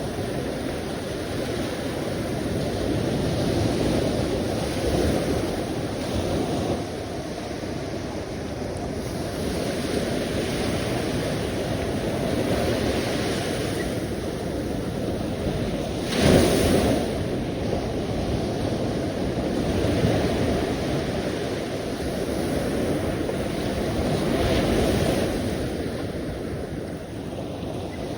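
Sea waves washing in and out, a steady rush that swells and eases every few seconds, with one louder wave breaking about 16 seconds in. Some wind noise on the microphone.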